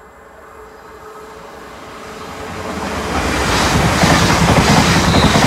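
A Class 350 electric multiple unit approaches on the main line, getting louder over about three seconds. It then passes close by with a loud rush and a regular clatter of its wheels on the rails.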